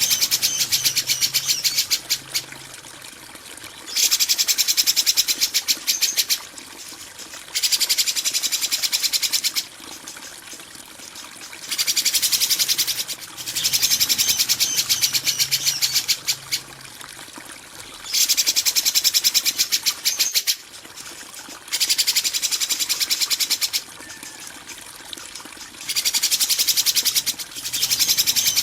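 Songbird giving harsh, rapid rattling trills in bursts of about two seconds, repeated every three to four seconds. It is a 'kasaran' (harsh-song) tutor recording played to train caged songbirds.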